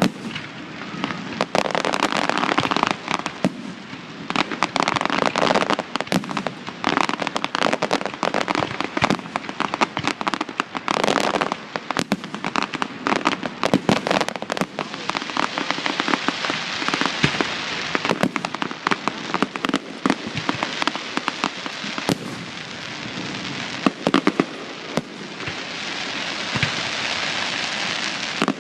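Fireworks display: a dense, continuous barrage of sharp bangs from aerial shells over a steady crackling hiss.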